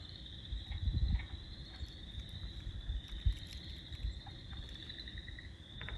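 A chorus of spring peepers: many small frogs peeping high and shrill at once, overlapping into a steady din. A low rumble runs underneath.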